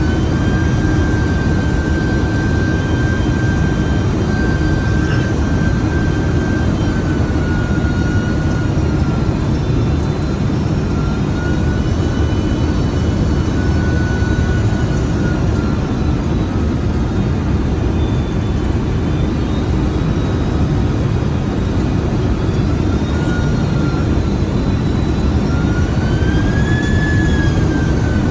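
Jet airliner on approach, heard from inside the cabin: a steady loud rumble of engines and airflow with a thin engine whine that drifts slightly in pitch as thrust changes, rising briefly near the end.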